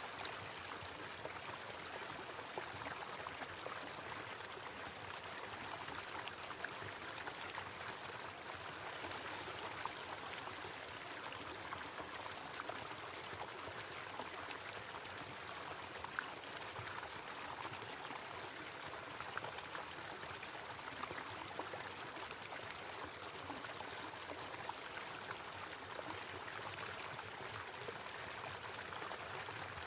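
Small waterfall splashing and trickling over rocks, a steady rush of water with scattered small splashes.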